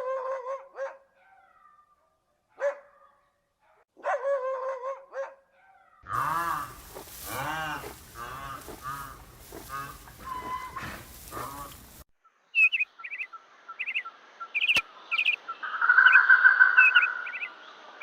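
A sequence of animal calls. First come short yelping dog barks, then a run of loud drawn-out calls that rise and fall, then birds chirping rapidly and repeatedly.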